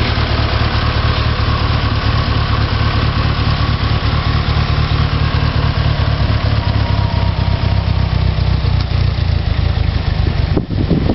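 Mitsubishi 4G63 turbocharged 2.0-litre inline-four engine, swapped into a Hyundai Sonata, idling steadily, with a brief drop in level near the end.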